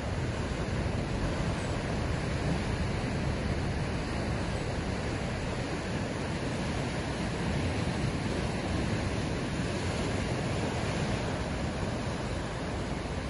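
Ocean surf washing continuously: a steady, dense rush of breaking waves with no single break standing out.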